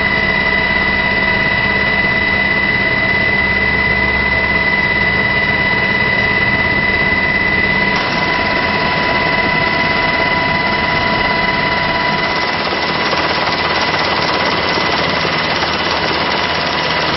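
Jet aircraft engine running steadily, a loud rushing noise with a high whine over it; the tone shifts slightly about halfway through and the rush grows louder near the end.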